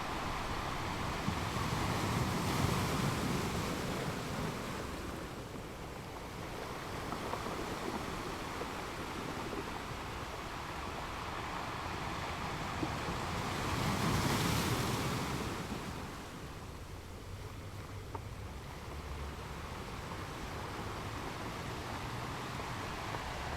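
Ocean waves breaking on a beach: two waves swell up and wash in, about three seconds in and about fourteen seconds in, with a steady hiss of surf between them.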